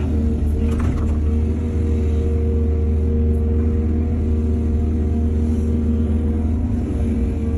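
Heavy diesel engine of an excavator running steadily, a constant low rumble with a steady engine hum.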